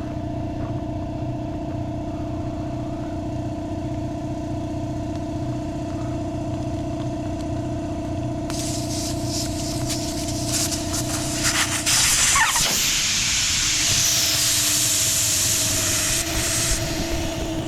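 A machine runs with a steady hum. About eight seconds in, a loud hiss of compressed air starts up as the air line is hooked up to the tire machine, and it carries on almost to the end.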